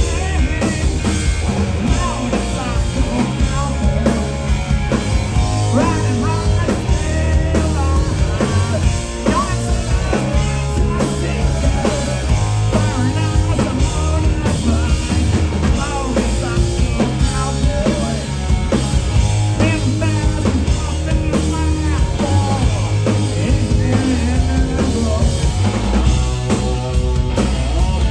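Live rock band playing loudly: electric guitars, bass and drum kit, with a vocal line. This is a live performance of a rock and roll song.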